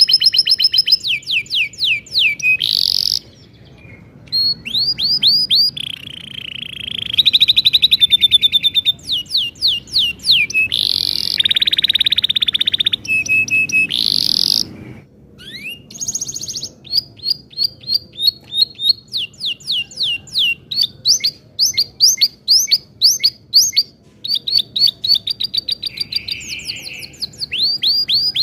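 Domestic canary singing a long song of fast repeated trills and rolling phrases, with brief pauses about a third and halfway through.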